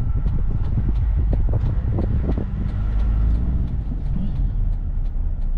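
Car driving, a steady low engine and road rumble heard from inside the cabin.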